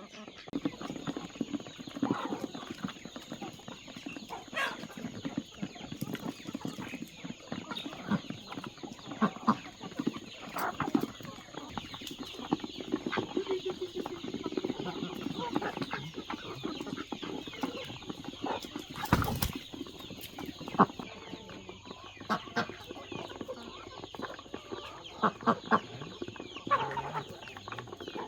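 Domestic chickens clucking at close range while they feed, with many small clicks and scratches among the calls. There is a brief, louder noisy burst about two-thirds of the way through.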